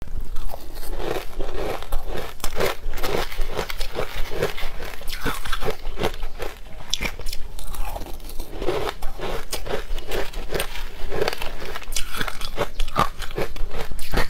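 Close-up crunching of frozen food as it is bitten and chewed: many sharp, crisp crunches in quick succession.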